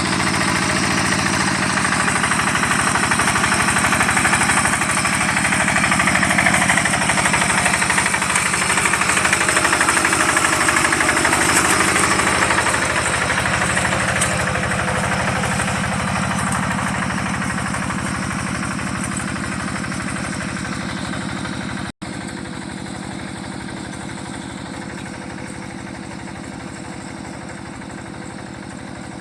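Engine of a rice-paddy hand tractor running steadily with a fast knocking beat. It grows gradually fainter over the second half, with a brief dropout about 22 seconds in.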